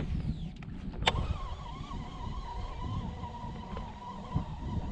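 Fishing cast and retrieve: a brief falling whizz as the line goes out, a sharp click from the reel about a second in, then a steady, slightly wavering whine as the reel is cranked to bring the spinnerbait back.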